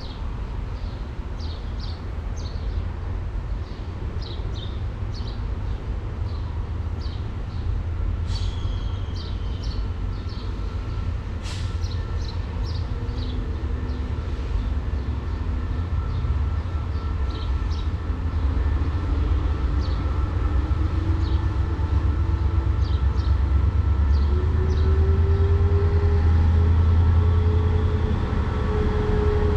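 Diesel train running through the station: a steady low rumble that grows louder, with the engine note climbing slowly in pitch over the last ten seconds as it works up. Scattered short, high clicks and squeaks from the wheels on the rails sound over it.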